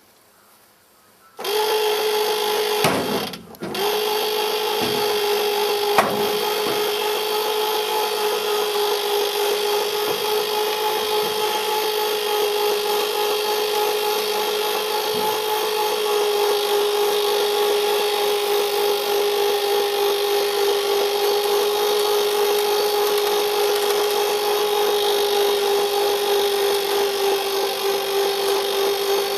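Electric winch motor running steadily under load with a constant whining hum, starting about a second in and cutting out briefly once before pulling on continuously.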